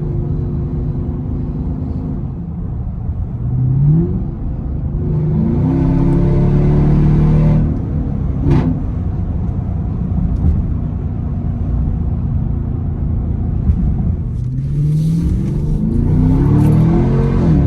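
Dodge Durango R/T's 5.7-litre Hemi V8 exhaust, fitted with an X-pipe, while the SUV is driven: the engine note climbs under acceleration several times and drops back at the gear changes. There is one short sharp knock about halfway through.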